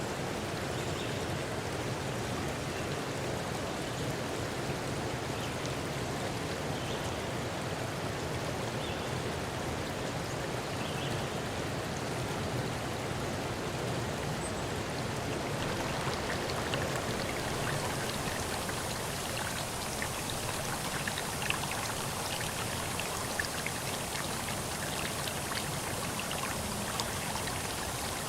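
Steady rush of flowing water, like a stream. From a little past halfway, a brighter hiss comes in, with scattered drops pattering.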